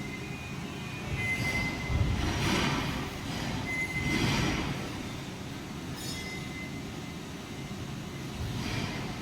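Milling machine drilling into a clamped metal workpiece: a thin, high squeal comes and goes over the running machine, with two louder swells of cutting noise about two and four seconds in.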